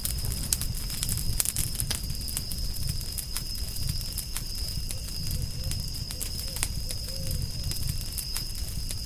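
Wood fire crackling, with irregular sharp pops and snaps over a low rumble of burning. A steady high-pitched tone runs behind it, and a faint low wavering call sounds around the middle.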